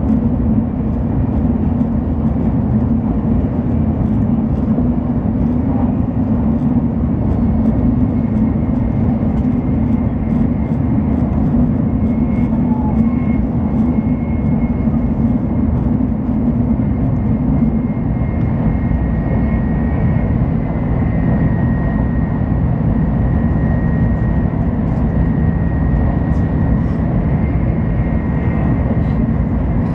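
Shinkansen Hikari bullet train running at speed, heard inside the passenger cabin: a steady low rumble with a faint, steady high whine above it.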